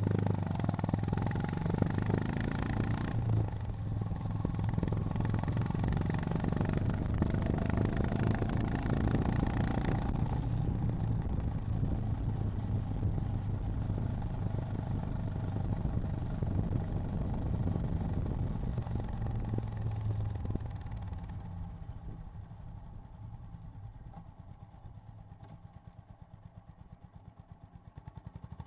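Honda GB350's air-cooled single-cylinder engine running under way, then, about two-thirds of the way through, the engine note falls away to a quieter, slow, even thumping as the bike slows and idles, picking up again right at the end.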